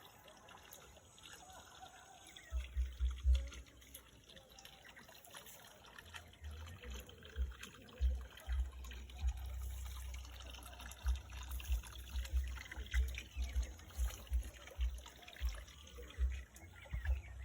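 Water trickling, under repeated low rumbles and thumps that come thicker from about six seconds in.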